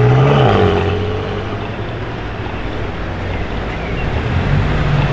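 Performance car engine running as a car pulls away: the revs rise briefly at the start and fall off, and the engine note swells again near the end.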